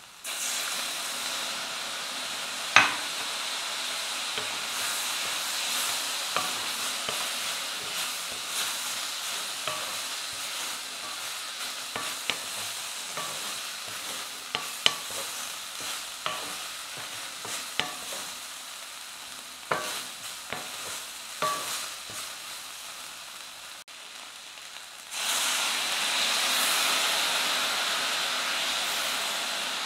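Sliced brinjal and green chillies sizzling in a hot stainless steel pan after a splash of water, with a wooden spatula stirring and knocking against the pan in scattered clicks. The sizzle starts suddenly and grows louder about 25 seconds in.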